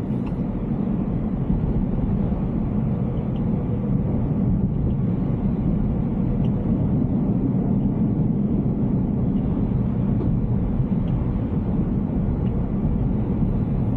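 Steady low rumble of road and tyre noise from a Tesla Cybertruck driving, with a few faint ticks.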